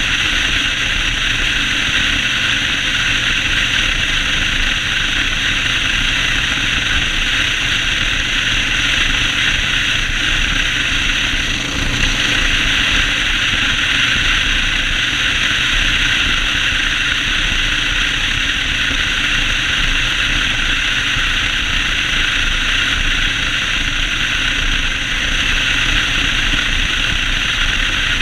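Yamaha Road Star 1600's V-twin engine running steadily while riding, under a constant loud hiss of noise.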